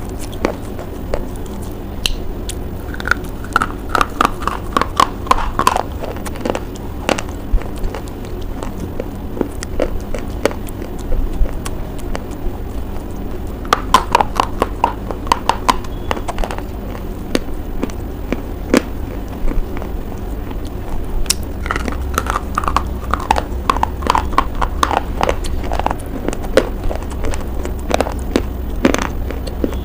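Close-miked crunching and chewing of a hard white bar. Sharp bite crunches come throughout, with three runs of quick, rhythmic chewing crunches.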